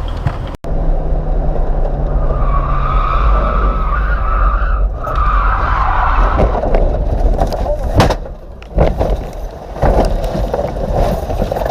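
Car road and engine rumble with tyres skidding and squealing for about four seconds, a few seconds in. Sharp knocks follow later on.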